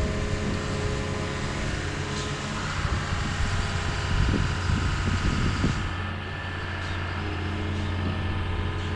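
Heavy equipment engine running steadily, with louder, uneven working noise between about three and six seconds in.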